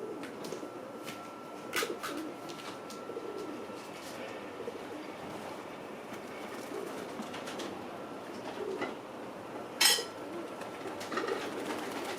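Feral pigeons cooing, low murmuring coos repeated on and off. There is a short sharp click about two seconds in and a brief, louder sharp noise about ten seconds in.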